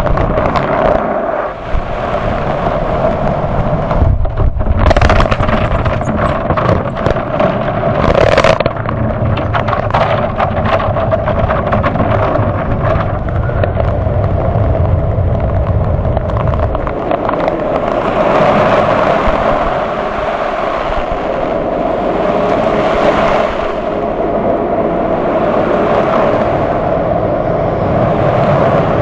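Automatic conveyor car wash heard from inside the car. Water spraying and splashing against the body and glass in irregular bursts for the first several seconds, with a heavy rumble. A steady machine drone runs throughout and turns into an even rushing noise for the second half.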